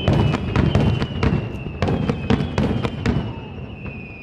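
Aerial firework shells bursting in a rapid barrage: many sharp booms and crackles in quick succession, with a faint steady high tone underneath.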